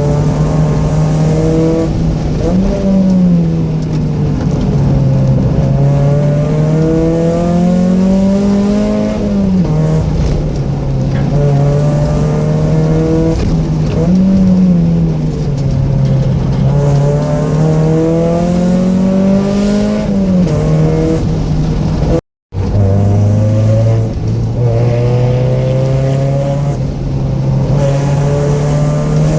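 Mazda Miata 1.6 four-cylinder engine with aftermarket headers and exhaust, driven hard on a winding road: the revs climb and fall again and again with gear changes and throttle blips. The sound cuts out briefly about three quarters of the way through.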